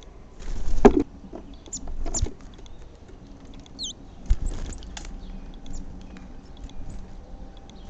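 Small garden birds at a feeder: rustling and knocks, the loudest a sharp knock about a second in, with short high chirps throughout.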